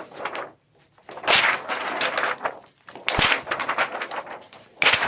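Improvised thunder effect: a stiff plastic X-ray film shaken and flexed, making three crackling, rattling bursts with short gaps between them.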